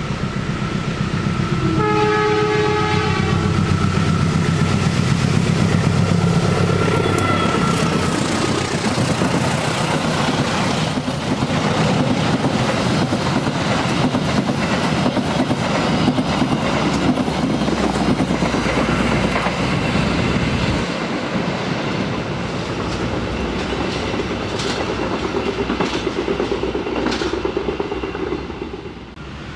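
Diesel locomotive sounding its horn in one short blast about two seconds in as it approaches, its engine rumbling. Then the passenger coaches pass with a steady clickety-clack of wheels over the rail joints, which fades near the end as the train goes into the tunnel.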